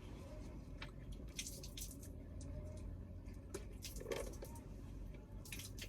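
Faint wet squishes and scattered small clicks of hands being rinsed and rubbed with bottled water, over a low steady hum.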